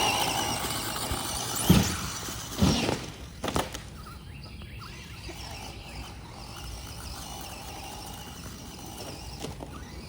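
Radio-controlled car running off a ramp: its motor whine fades as it drives away, followed by a few knocks and clatters about two, three and three and a half seconds in as it lands. After that there is only a faint steady outdoor noise.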